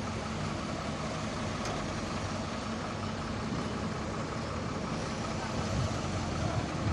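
Steady road traffic noise: vehicle engines running and tyres on the road, with a low engine hum, getting a little louder near the end.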